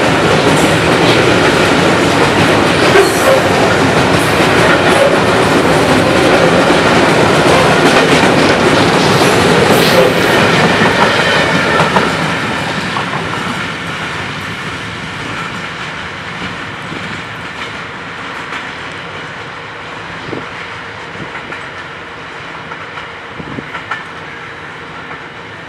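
Container freight train's wagons rolling past close by, loud and steady. About twelve seconds in the brake van goes by and the sound fades gradually as the train draws away.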